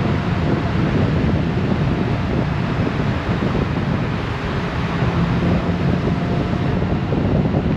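Wind buffeting the microphone over the steady road and engine noise of a Honda Gold Wing motorcycle riding at speed, a constant low rushing throughout.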